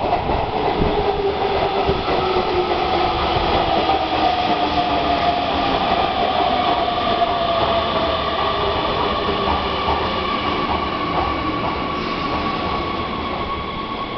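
Hanshin 8000-series electric train pulling into an underground station platform and braking. The wheels rumble and clack over rail joints, and a whine falls steadily in pitch as the train slows. The sound eases off gradually near the end.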